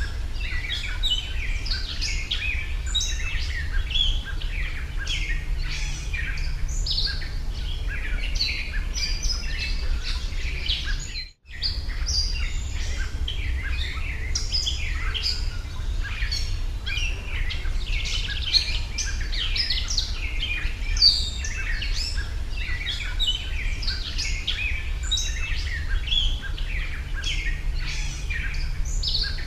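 Many small birds chirping and singing over one another in a continuous chorus, over a steady low rumble. The sound cuts out completely for a moment about eleven seconds in.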